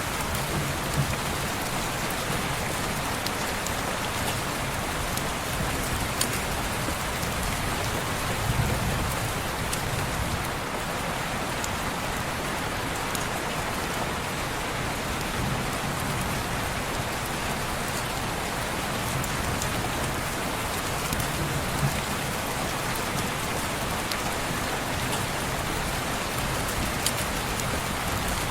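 Steady rain falling on a window glass, a dense even hiss with a few sharp ticks scattered through it, layered with a fireplace.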